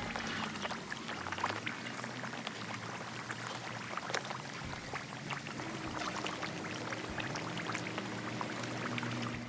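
Water pouring steadily, with faint music underneath.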